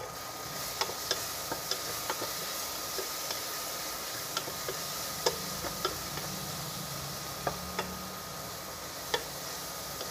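Onion and tomato masala, with chilli and turmeric powder just added, sizzling in oil in a steel pan while a spatula stirs it. The spatula knocks and scrapes against the pan in sharp clicks at irregular intervals over a steady hiss.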